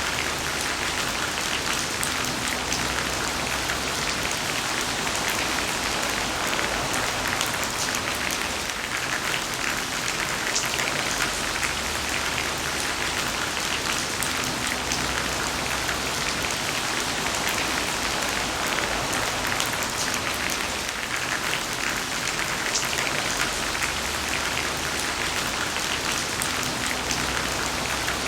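Heavy rain falling steadily: a dense, even hiss of water with many fine drop ticks.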